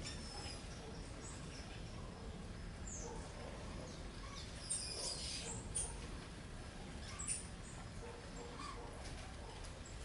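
Small birds chirping and calling now and then in short, high notes, with a short flurry about halfway through, over a faint steady low hum.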